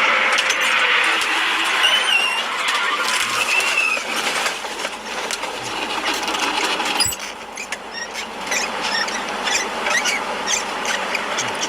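Traffic and road noise as heard from inside a car, with two short squeals, typical of tyres or brakes, about two and three and a half seconds in. The sound changes abruptly about seven seconds in, and after that a string of light clicks or rattles runs over the road noise.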